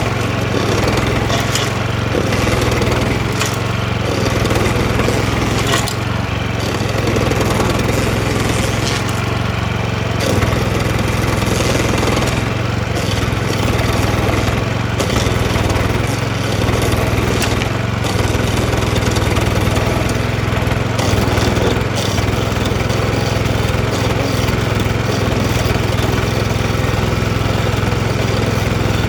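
DR stump grinder's gasoline engine running steadily at speed while its toothed cutting wheel grinds into a tree stump, with scattered sharp clicks and cracks from the teeth biting wood.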